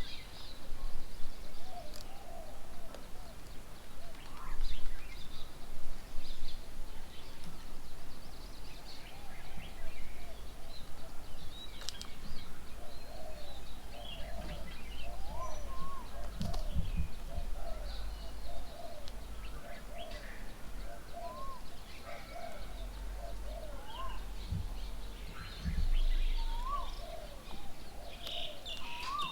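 Several birds calling and chirping around a bird table, short overlapping calls from more than one kind of bird, with a couple of brief low rumbles partway through.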